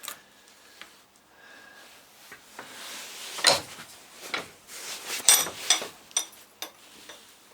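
Metal parts of a dismantled starter motor being handled: scattered clicks, taps and rubbing, with several sharper knocks from about three and a half seconds in.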